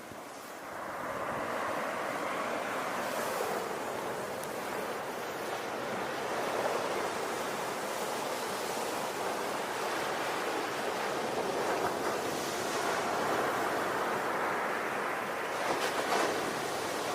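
Ocean waves breaking and washing onto a shore, a steady rushing surf that swells and eases, with a brief hissing splash near the end.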